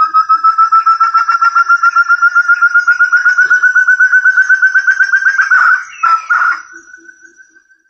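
Forest partridge (puyuh hutan) call used as a trapping lure: a fast run of short clear whistled notes, about nine a second, slowly climbing in pitch for some five seconds. Near the end come a few rougher notes, then a soft drawn-out whistle that fades away.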